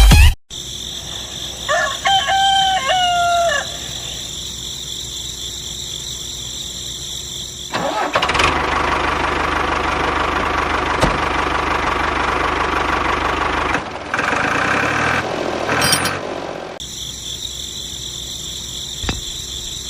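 A rooster crows once over a steady hiss. About eight seconds in, a louder steady mechanical whirr starts and runs for about six seconds, and a shorter stretch of it follows near the end.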